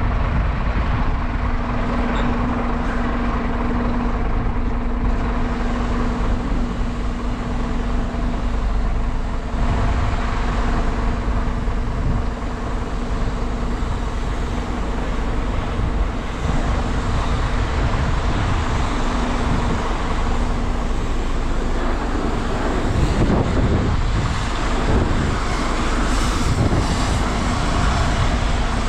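An engine running steadily with a constant low hum, with a rougher, noisier patch near the end.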